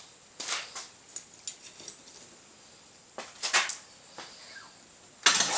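A few short, separate clanks and scrapes of metal work pieces and tools being handled and set down, with a louder knock near the end.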